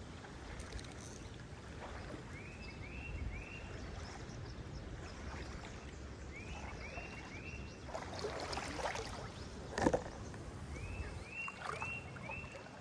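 Creek water running with small splashes and knocks, the loudest knock about ten seconds in. A songbird sings a short phrase of three or four repeated slurred notes, three times.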